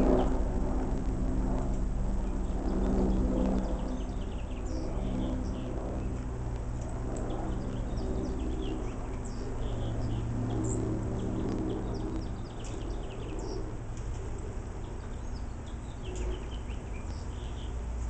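Small birds giving short, high chirps and tweets scattered throughout, over a steady low hum.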